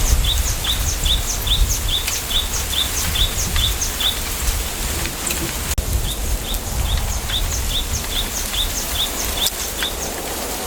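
A small bird repeating a short, high, downward-sliding chirp about three times a second, in two runs with a pause between them. Under it is a steady low rumble and hiss of wind in a bamboo grove.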